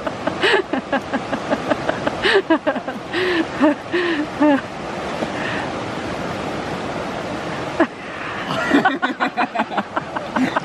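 A person's voice in short rising-and-falling bursts, then a few seconds of steady background noise, then voices again near the end.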